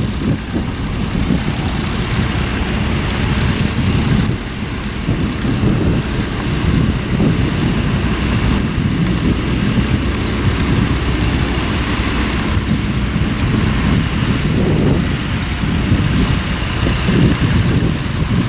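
Tractor engine running steadily at a ploughing match field, with wind buffeting the microphone.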